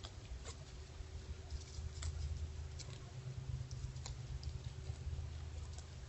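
Whitetail doe grazing noisily: irregular crisp snaps and clicks, about one a second, as she crops and chews grass, over a low rumble.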